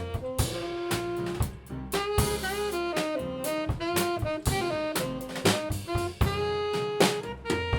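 Live band music: a sustained melody line moving note to note over a drum kit keeping time.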